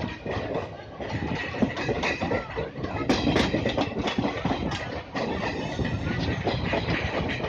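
Passenger train running over the tracks, heard from on board: steady rumble of the wheels with clickety-clack over rail joints and points, and a cluster of sharper clicks about three seconds in.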